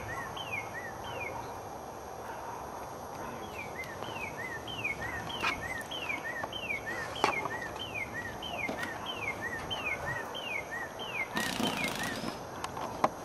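A songbird repeating a two-note phrase, a falling whistle then a short lower note, about twice a second, with a short pause a second or so in. A brief rush of noise near the end.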